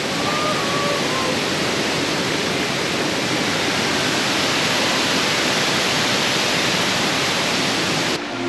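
Waterfall rushing: a steady, full hiss of falling water. It cuts off abruptly just before the end as music begins.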